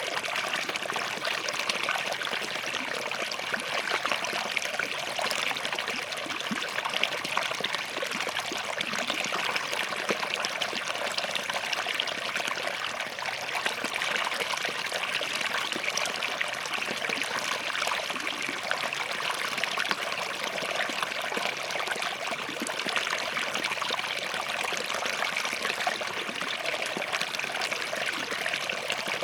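Small forest stream flowing and trickling over rocks: a steady, even babble of running water.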